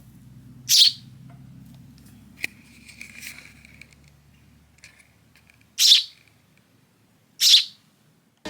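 Young hand-reared sparrow chirping: three loud, short chirps, each dropping in pitch, spaced a few seconds apart, with a fainter call between the first two.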